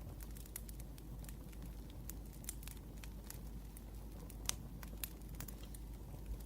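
Wood fire crackling: irregular sharp pops and snaps over a low steady rumble, with one louder pop about four and a half seconds in.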